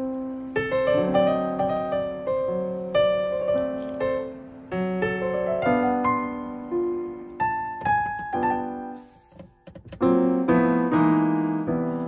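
Background piano music: a gentle melody of single notes and chords, each note struck and left to fade. There is a brief break about nine seconds in before the playing picks up again.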